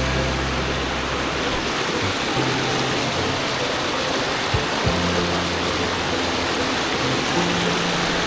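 Steady rush of flowing water under background music, whose low bass notes change every second or two.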